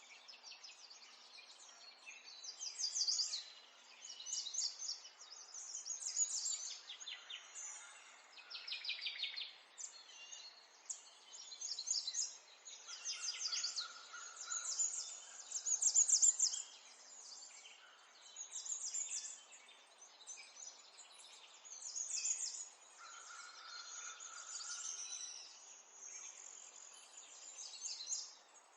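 Small songbirds singing: quick high-pitched trills and chirping phrases, one after another every second or two, over a faint steady background hiss.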